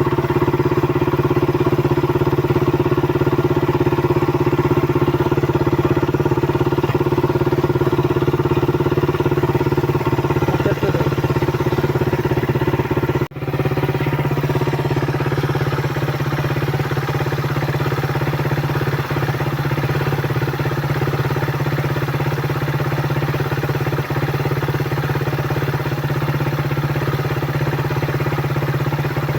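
Suzuki Raider 150's single-cylinder four-stroke engine running steadily at a constant speed, with one very brief break about halfway through.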